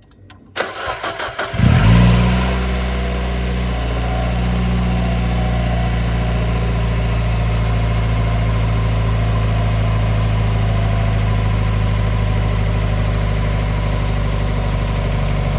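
Mazda Miata engine cranking briefly, catching, flaring up once and then settling into a steady idle. It is being run for a combustion-leak (block) test on a suspected blown head gasket.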